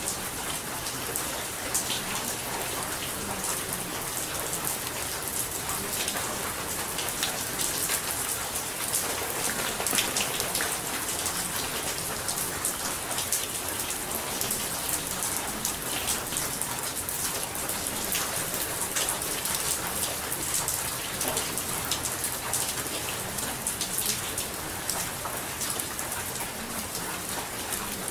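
Steady rain: an even hiss with many small drop ticks, unchanging throughout.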